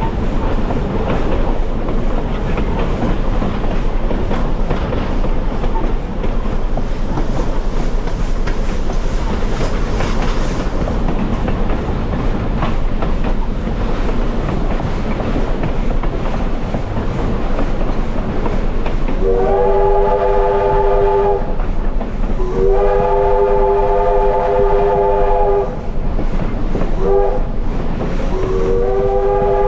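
Passenger train rolling steadily along the rails, then about twenty seconds in the steam locomotive's chime whistle sounds a chord of several notes in the grade-crossing pattern: two long blasts, a short one, and a long one still sounding at the end. The train is pulled by a 1924 Baldwin 2-6-6-2T Mallet tank locomotive.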